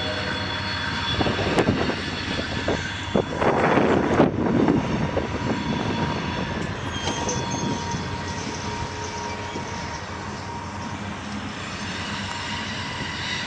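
Approaching train at a grade crossing: steady locomotive rumble and rail noise, with a horn note dying away in the first second. A brief loud rush of noise comes about three to four seconds in.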